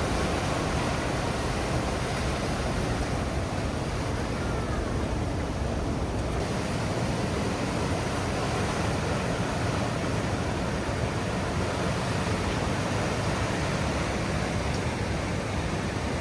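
Steady wash of ocean surf along a rocky shore, mixed with wind on the microphone.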